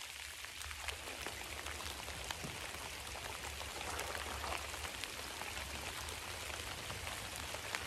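Steady rain falling on a pond's surface, an even hiss with scattered sharper ticks of single drops.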